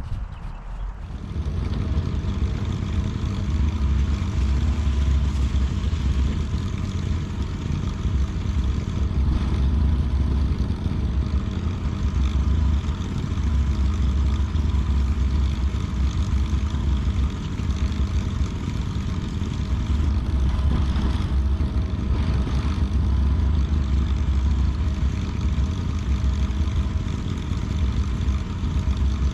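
Lawn mower engine running steadily. It comes in about a second in, after a quieter moment, and carries on without a break.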